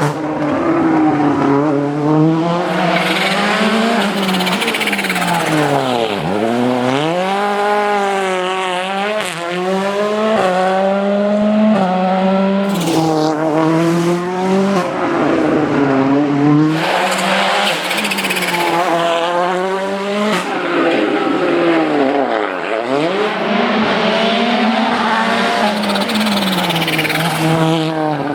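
Volkswagen Polo R WRC rally car's turbocharged 1.6-litre four-cylinder engine driven hard, its revs climbing and dropping in steps through the gear changes. Twice the revs fall right down and climb back as the car slows for a tight corner and accelerates away.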